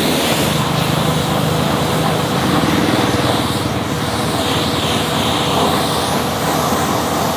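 A small engine running steadily under a dense, even noise.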